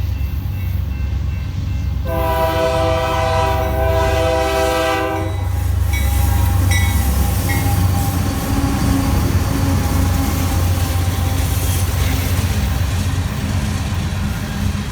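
Freight train with GE AC4400-type diesel locomotives passing. A multi-note air horn sounds one long blast of about three seconds, about two seconds in, over the steady low rumble of the diesel engines. Afterwards the train keeps rolling by, with brief wheel squeals.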